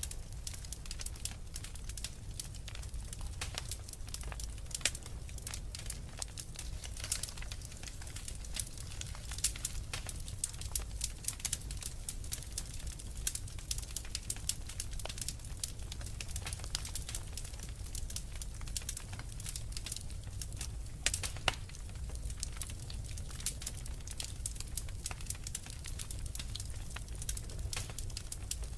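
Wood fire burning in a fireplace: a continuous crackle of small sharp pops and snaps over a low, steady rumble of the flames.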